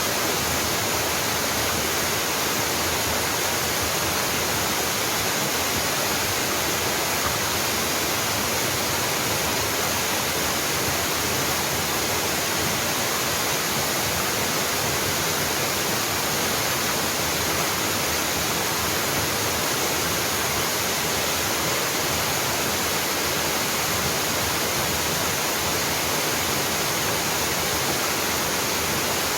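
Mountain waterfall pouring steadily: an even, unbroken rush of falling water.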